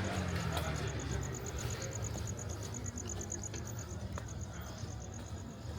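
Cricket chirping in a high, rapid, evenly pulsed trill, over the low rumble of a passing car fading away.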